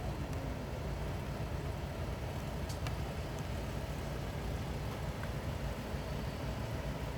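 Idling engine: a steady low rumble, with a few faint ticks about three seconds in.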